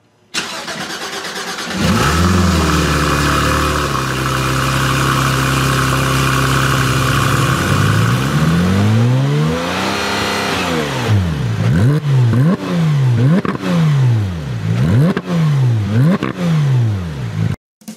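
Porsche 911 GT3 RS's 4.0-litre flat-six starting about two seconds in, flaring briefly, then settling to a steady idle. It is then revved freely: one long rise and fall, then a quick run of sharp blips about one a second, cutting off suddenly near the end.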